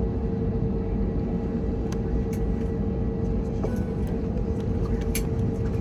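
Steady low rumble inside an Airbus A321neo's cabin, with a constant hum running through it and a few scattered light clicks.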